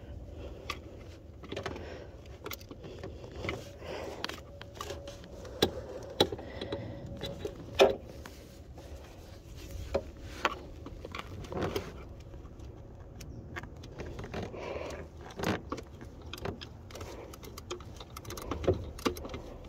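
Metal hand tools clinking and tapping irregularly as bolts are worked on under the car, with scattered sharp clicks and a few louder knocks.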